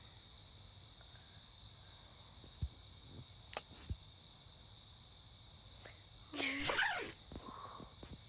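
Crickets chirping steadily in a constant high-pitched trill. A few faint clicks sound in the middle, and a short voice-like cry that bends in pitch comes about six seconds in.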